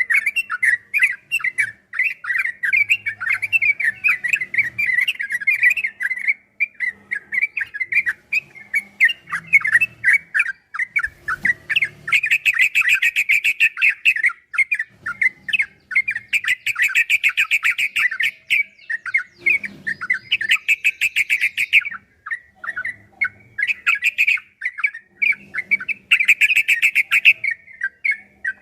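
Yellow-vented bulbul (trucukan) singing a long, rapid chatter of notes, with bouts of denser fast-repeated runs (the 'ropel' song) from about halfway through, broken by short pauses.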